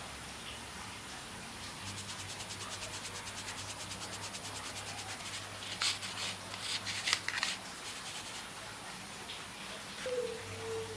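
Kitchen utensil working in a mixing bowl during banana-bread batter prep: a fast, even scraping rhythm for a few seconds, then several short, louder scraping strokes.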